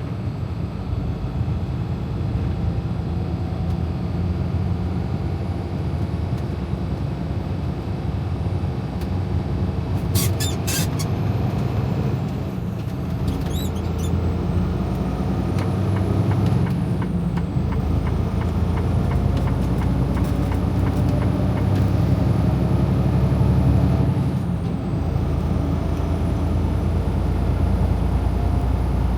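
Freightliner Cascadia semi truck's diesel engine running under way, heard from inside the cab as a steady low drone that grows louder through the middle and dips briefly about three-quarters of the way through. A short cluster of sharp clicks comes about ten seconds in.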